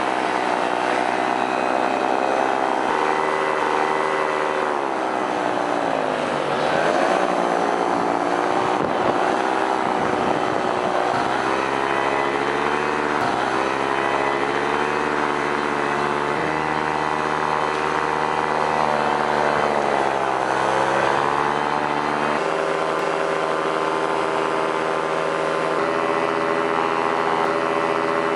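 Paramotor engine and propeller running steadily. The pitch dips as the throttle is eased back about six seconds in and again near twenty seconds, then rises again.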